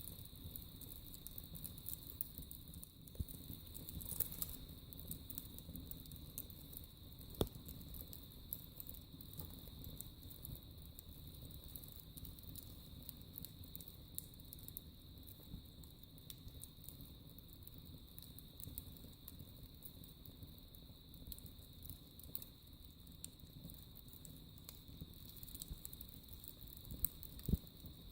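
Wood fire burning in a fireplace, crackling with many small scattered pops, and two louder pops: one about a quarter of the way in and one near the end.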